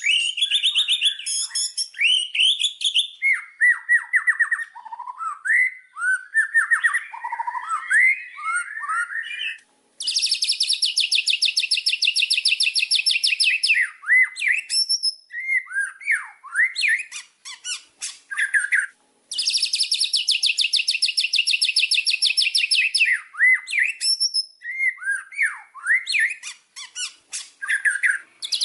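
White-rumped shama (murai batu) singing: a varied run of loud whistles, glides and chirps, broken twice by a few seconds of fast, dry rattling chatter.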